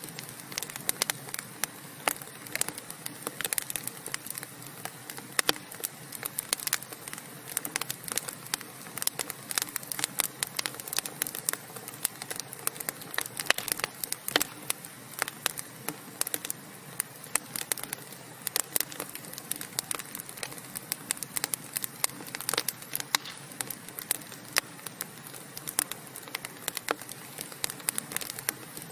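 Wood fire crackling steadily, with dense irregular snaps and pops over a soft hiss of burning.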